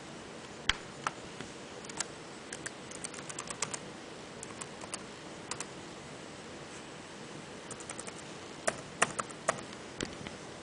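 Typing on a keyboard to enter an Apple ID: irregular key clicks, a quick run of them about two to four seconds in and another near the end.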